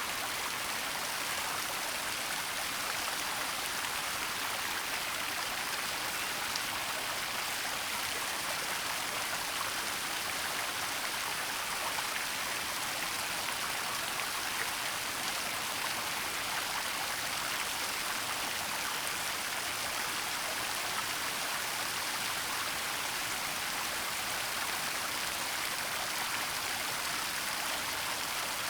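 Waterfall and running stream water, a steady even rush without breaks or distinct events.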